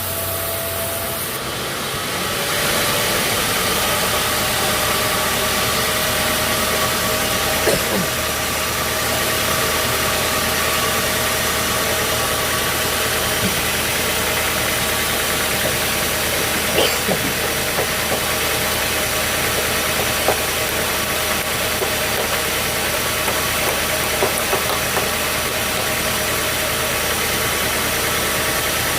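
Sawmill machinery running steadily with a continuous mechanical drone and a few light knocks.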